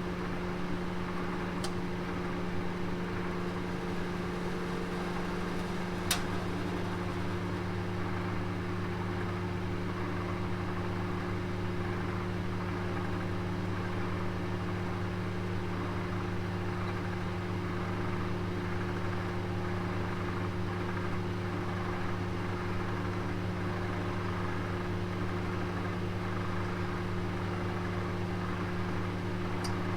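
Oven running with a roast inside: a steady low hum with a fan-like hiss, whose lowest note grows stronger several seconds in, and a single sharp click about six seconds in.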